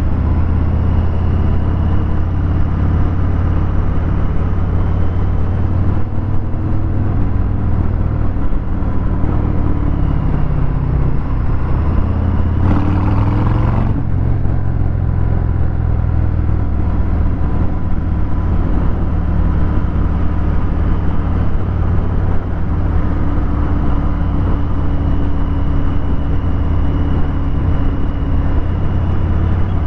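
Harley-Davidson Fat Bob 114's Milwaukee-Eight 114 V-twin running through a Vance & Hines 2-into-1 Hi-Output exhaust, with revs rising and falling at low road speed. A brief hiss comes about thirteen seconds in.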